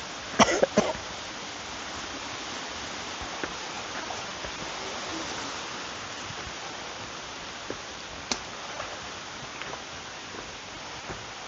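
Steady rushing noise of water, with a few sharp clicks about half a second in and one more a little past the middle.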